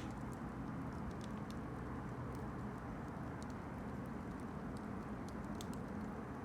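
Campfire burning: a steady low rumble with frequent small, irregular crackles and pops.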